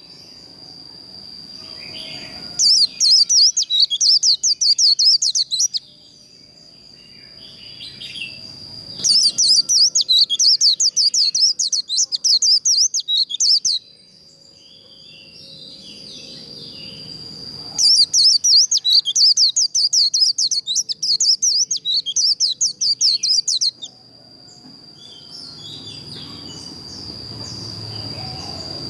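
White-eye singing its rapid, chattering 'líu' song in three bouts of several seconds each, the kind of fast song played to fire up caged white-eyes to sing back. A steady high thin tone runs under it throughout.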